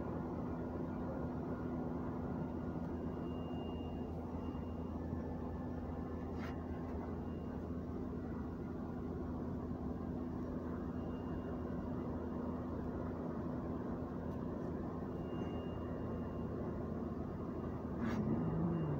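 Honda B16A four-cylinder engine idling steadily, a low even hum heard from inside the Civic's cabin. There is a light click about six seconds in and another near the end.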